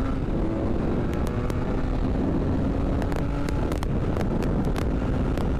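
Benelli Leoncino 500's parallel-twin engine, still on its stock exhaust, running steadily under way, its note creeping slowly upward, beneath heavy wind noise on the microphone. Scattered sharp clicks come through from about a second in.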